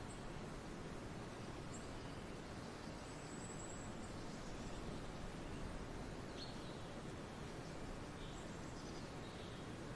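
Forest ambience: a steady background hiss with faint, scattered high bird chirps and calls every second or two.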